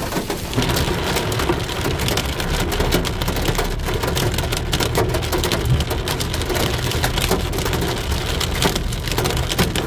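Heavy rain falling, a dense patter of drops striking a surface, with a low steady rumble underneath.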